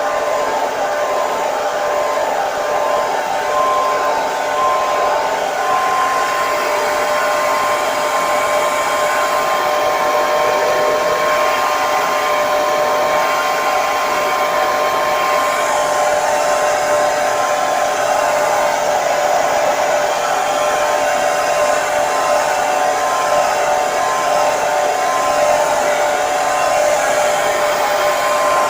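Hair dryer running steadily: an even blowing hiss with a steady motor whine.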